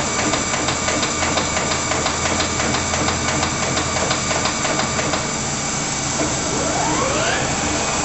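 Monarch 20" x 54" engine lathe running, a steady machine noise with rapid, regular clicking through the first five seconds or so. A whine rises in pitch about six seconds in.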